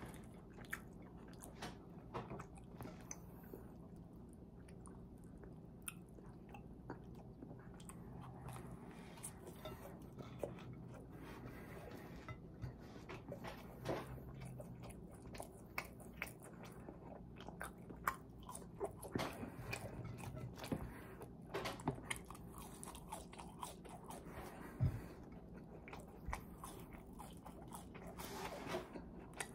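Close-up chewing and biting of a bacon cheeseburger and fries, with irregular crunches and clicks. The crunching is busiest and loudest about two-thirds of the way through, with one sharp click soon after.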